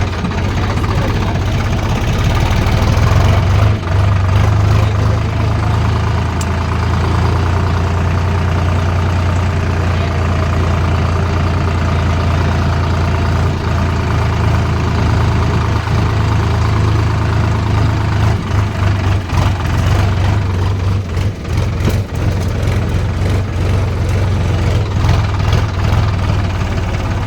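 Tractor diesel engine running steadily with a strong low hum, the level wavering a little in the second half.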